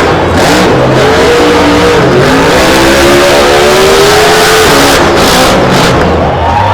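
Monster truck's supercharged V8 engine revving hard, its pitch rising and falling again and again as the throttle is worked.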